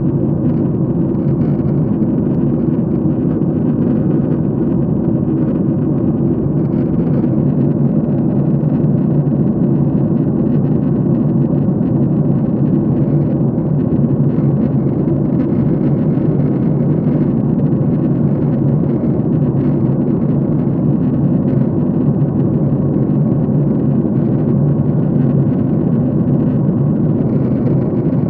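Airliner cabin noise in flight: a steady, deep rush of engine and airflow noise heard from inside the cabin, unchanging throughout.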